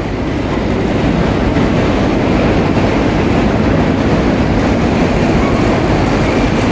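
Steady cabin noise inside an Airbus A320-232 airliner: a constant low rumble and rush of air with a faint rattle.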